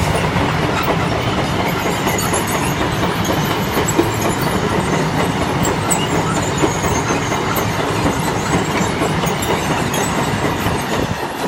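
Freight train passing close by: wagons rolling past with a steady rumble and wheel clatter on the rails, easing off near the end.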